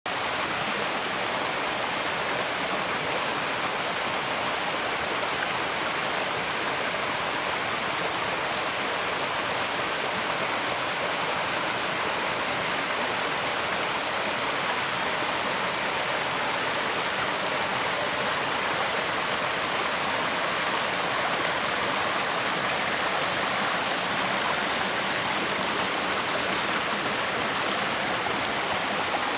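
Water of a small brook pouring over a waterfall: a steady rushing splash.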